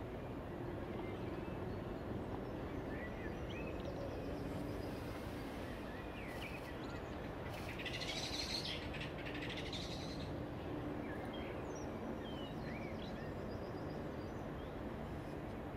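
Birds chirping in short scattered calls, busier for a couple of seconds about halfway through, over a steady low background hum and outdoor noise.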